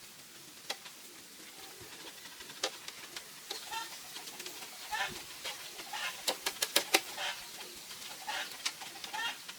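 Farm birds calling among scattered sharp knocks, with a quick run of about six knocks a little after halfway.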